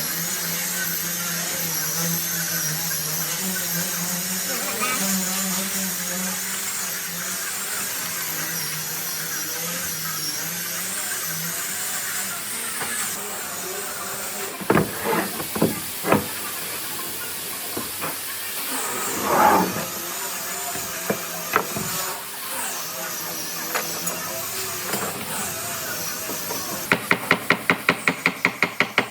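Woodworking knocks on wood over a steady hiss: a few scattered knocks in the middle, then a fast, even run of sharp knocks, about five a second, near the end.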